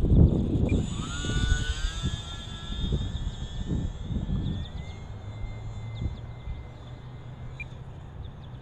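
Electric motor and propeller of an E-flite UMX Timber micro RC plane whining in flight. The pitch climbs about a second in and then holds steady. Low wind rumble on the microphone is loudest at the start and eases off.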